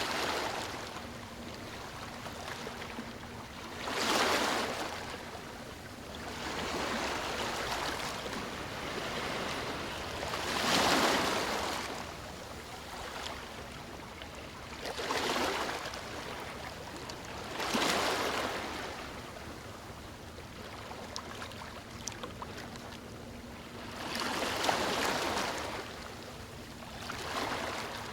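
Sea waves breaking and washing on a beach, a rush of surf that swells and fades every few seconds in an uneven rhythm.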